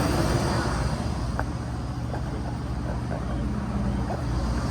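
Outdoor air-conditioning and refrigeration condensing units running together: a steady low compressor hum under the even whoosh of the condenser fans.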